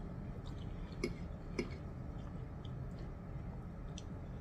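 Chewing a mouthful of spaghetti with the mouth closed, with two small clicks about a second in and a few fainter ticks.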